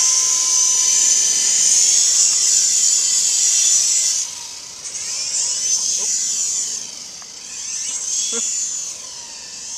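S031G remote-control helicopter's electric motors and rotors whining high in flight, the whine rising and falling in pitch and loudness as the throttle changes, with a clear drop about four seconds in.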